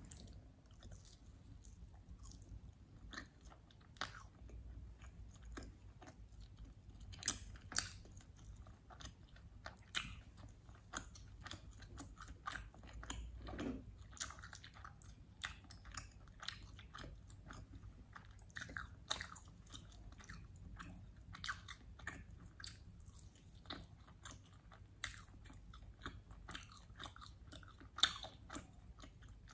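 Close-miked chewing and biting of roast mutton: many short, irregular mouth and teeth clicks.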